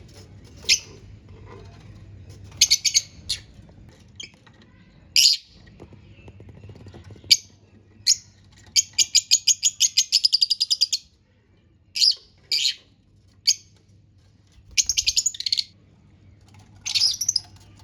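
Lovebirds chirping: sharp high single chirps and short clusters, with a fast run of about ten chirps a second lasting roughly two seconds, about nine seconds in.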